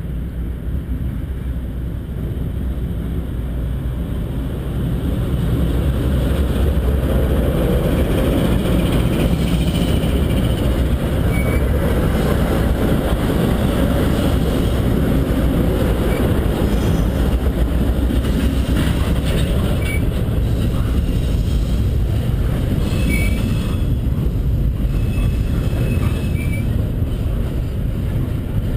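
A Norfolk Southern freight train passes close by: a diesel locomotive rumbles past, then double-stack container well cars roll by, with steel wheels on the rails. The sound swells over the first several seconds as the train comes alongside, then holds steady, with a few short high wheel squeaks.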